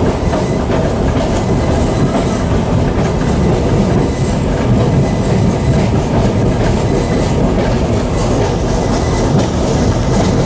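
A 1955-built former Boston commuter railcar running along the track: a steady, loud rumble of wheels on rails.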